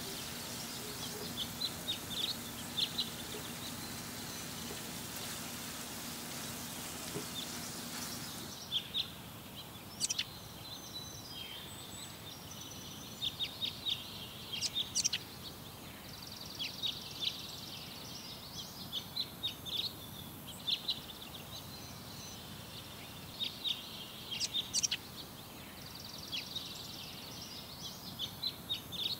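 Small birds chirping in quick runs of short high notes throughout, over a steady low hum that stops about a third of the way in.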